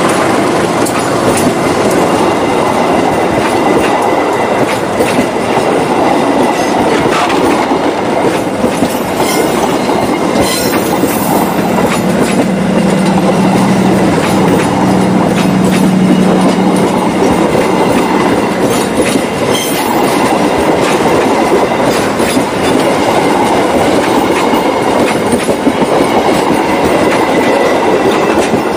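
Passenger train coaches passing close by at speed: a steady loud rumble of steel wheels on the rails, with sharp clacks as the wheels run over a turnout. A low hum joins for a few seconds around the middle.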